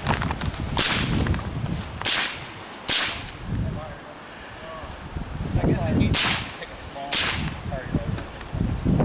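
A .22 LR rifle firing about five sharp cracks at an uneven pace: two close together about two seconds in, then a pause, then two more about a second apart near the end.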